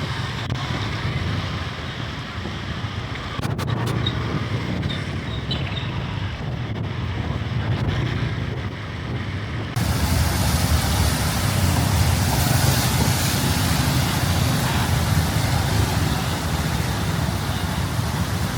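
Heavy rain and road traffic on a wet street, with a steady low rumble of wind on the microphone. About ten seconds in, the sound changes suddenly: the rain's hiss becomes brighter and a little louder.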